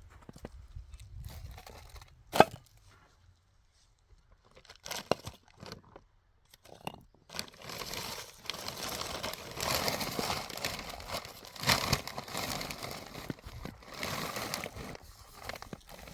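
Rustling and scraping of material being handled by hand, with one sharp knock about two and a half seconds in and, from about halfway, a continuous rustle broken by a few knocks.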